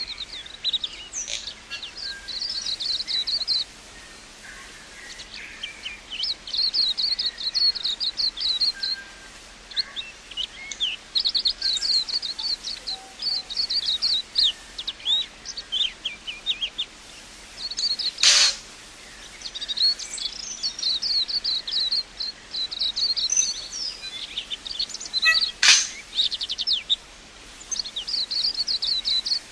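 A songbird singing in repeated phrases of rapid, high twittering chirps, a phrase every few seconds with short pauses between. Two sharp, louder single notes stand out, about eighteen and twenty-six seconds in.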